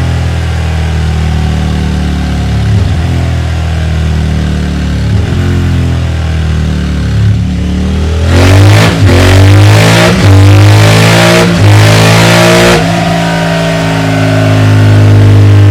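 Suzuki V-Strom V-twin engine exhausting through a Delkevic 14-inch oval stainless steel muffler. It runs at low revs with a few short throttle blips, is revved hard several times in quick succession about eight seconds in, and holds a steadier, louder note near the end.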